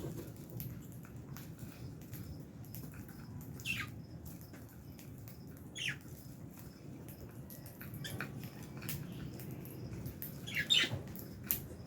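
Lovebirds (Fischer's and albino) in an aviary giving a few short, sharp chirps that fall in pitch, the loudest near the end, among small clicks and rustles of the birds moving about the cage.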